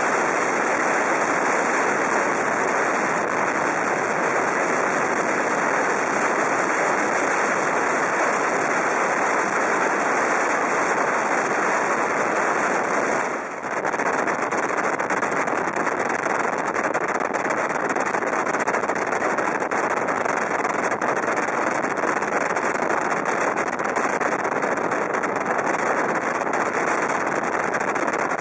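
Steady rushing of wind and wheel-on-rail noise from a CityNightLine sleeper train moving at speed, heard at an open window, with a brief dip in level about halfway through.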